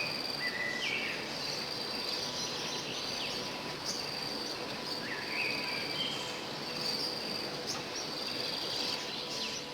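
Insects trilling in a steady high drone, with a few short bird chirps over it.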